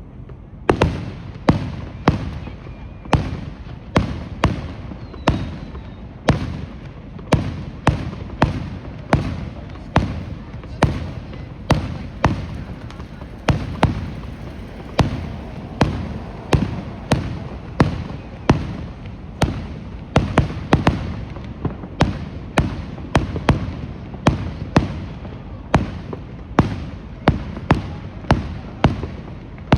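Fireworks going off in a fast, steady string of sharp bangs with low booms, about two a second.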